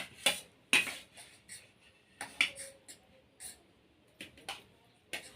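Spoons and plates clinking and scraping in irregular short knocks as food is served out into portions.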